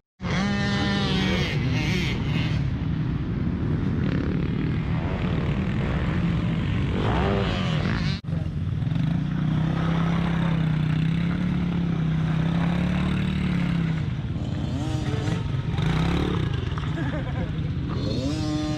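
Motocross dirt bikes running on the track, engines revving up and shifting several times over a steady engine drone.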